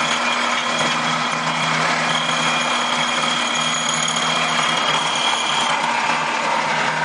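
Woodworking drilling machine running steadily, with a low hum under dense mechanical noise and a thin high whine from about two and a half seconds in until almost six seconds in.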